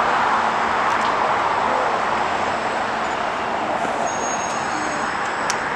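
Jet airliner engine noise after takeoff: a steady rushing sound that slowly fades as the aircraft climbs away.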